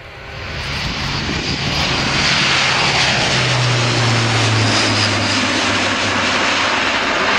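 Airbus A400M's four TP400 turboprop engines at takeoff power, growing loud over the first couple of seconds, then a steady loud roar with a low propeller hum that drops in pitch about halfway through as the aircraft passes.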